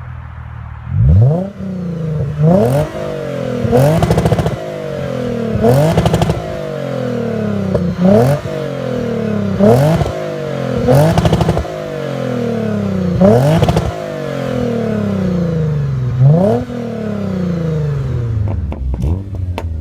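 Lexus RC350 F Sport's 3.5-litre V6 through an ARK Performance aftermarket exhaust, free-revved about nine times while parked: each rev climbs sharply and then falls slowly back to idle.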